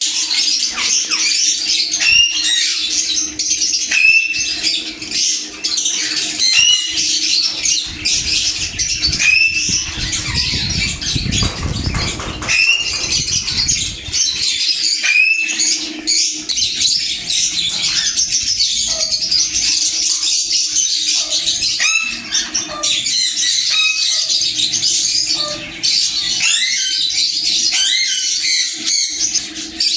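Sun conures chattering and screeching without pause, with short rising call notes repeating about every two seconds. A faint steady low hum runs underneath.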